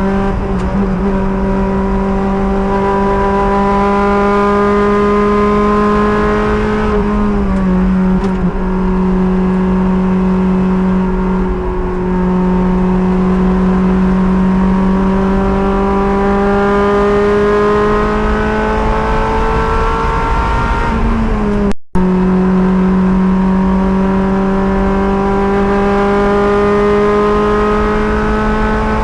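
Race car engine heard from the driver's helmet, running hard at high revs with its pitch climbing slowly, dropping briefly about seven seconds in and again about twenty-one seconds in. The sound cuts out for an instant at about twenty-two seconds.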